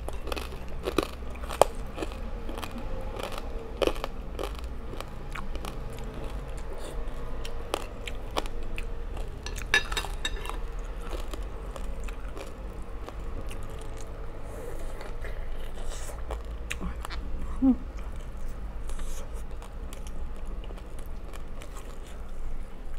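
Close-miked chewing and crunching of crispy roast pork belly: wet mouth sounds with a steady run of crackles from the crisp skin and a few sharper cracks.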